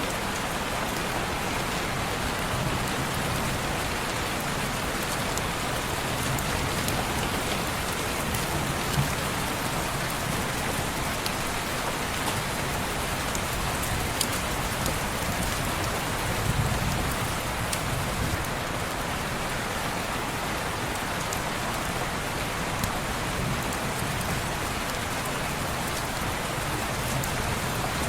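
Steady rain pattering on window glass as an even hiss, with scattered sharp ticks of single drops. A low rumble swells briefly just past halfway.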